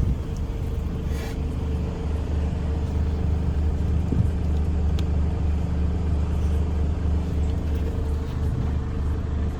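Mercedes-Benz Arocs 1851 tractor unit's diesel engine idling with a steady low rumble.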